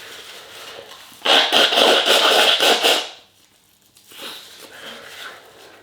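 A person blowing a runny nose, one loud rough blow of nearly two seconds, then fainter sniffing and rustling. The nose is running from the ghost pepper powder he has been eating.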